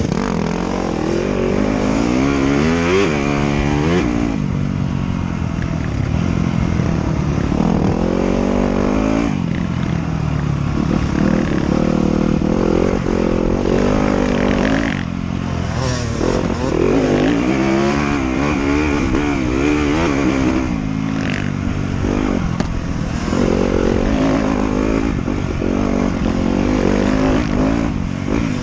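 Trail motorcycle engine revving up and dropping back over and over as the bike rides a trail, with some clatter.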